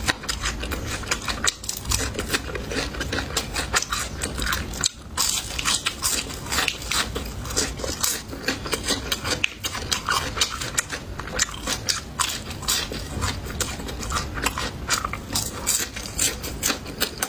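Crunching and chewing of crispy deep-fried small yellow croaker: a dense, irregular run of crackling bites.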